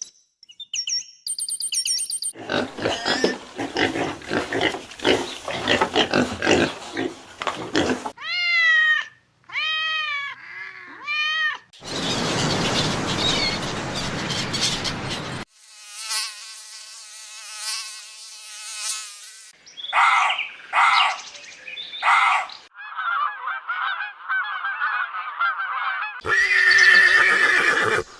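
A run of different animal calls, one clip after another, each lasting a few seconds: some noisy and rasping, some pitched and rising and falling, some in short repeated pulses.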